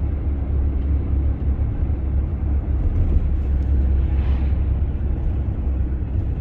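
Strong wind buffeting the microphone: a steady, heavy low rumble, with a brief gust swelling a little about four seconds in.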